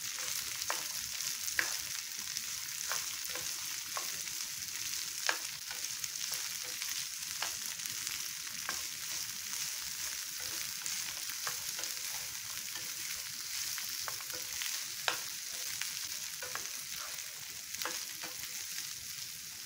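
Freshly added chopped okra frying in oil in a non-stick pan with peanuts and onion, a steady high sizzle. A spatula stirs it, scraping and clicking against the pan every second or so.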